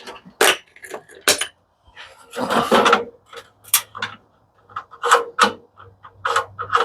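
Hand tools and metal parts of an industrial coffee machine clicking, knocking and scraping as it is taken apart, with an irregular run of sharp clicks and a longer scraping rub about two and a half seconds in.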